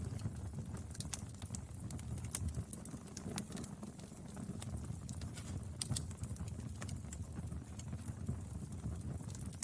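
Wood fire burning: a steady low rumble with frequent irregular crackles and pops of the burning firewood.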